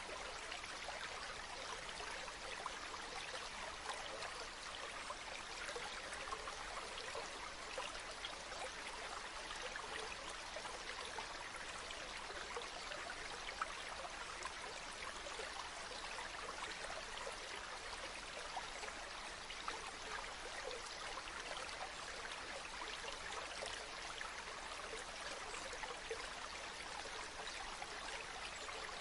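A small stream running steadily, an even babble of water with small splashes scattered through it.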